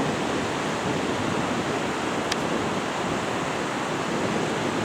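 Steady rush of Gulf surf and wind, with a faint tick about halfway through.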